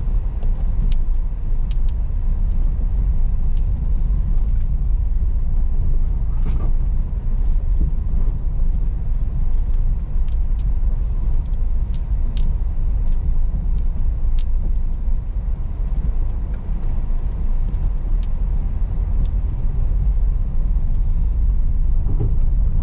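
Car driving over a rough unpaved road: a steady low rumble of tyres and engine, with occasional sharp clicks.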